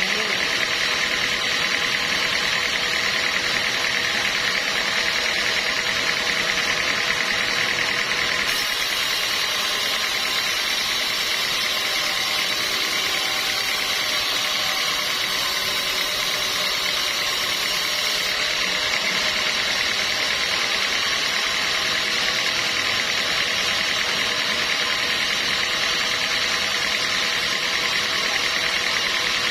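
Sawmill machinery running steadily, a continuous mechanical noise, with a brighter hiss added from about nine seconds in until about eighteen seconds in.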